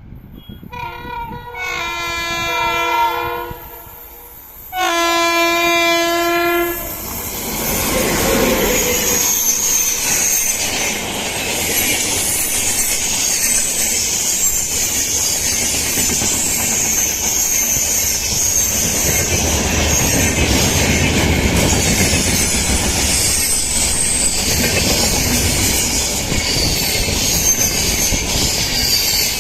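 WAP-7 electric locomotive's loud horn sounding two long blasts, the first starting a little lower in pitch. Then the locomotive and its coaches roll past with a steady clatter of wheels on rail and high wheel squeals.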